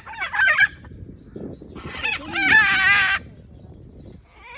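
Exotic birds calling: a short call at the start, then a longer, louder call about two seconds in.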